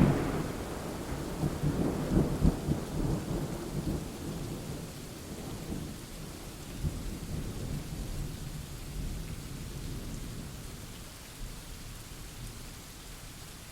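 Thunder rumbling low and dying away over the first few seconds, over steady rain.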